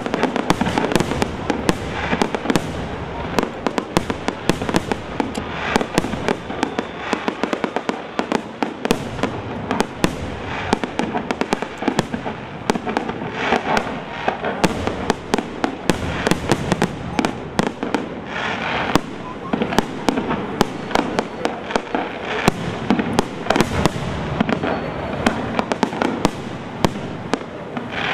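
Fireworks display, with aerial shells bursting and low-level fireworks firing: a dense, unbroken run of bangs and crackles, many a second.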